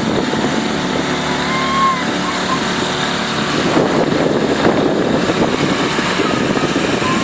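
Small boat's engine running steadily under way, with a rougher rushing noise joining it about halfway through.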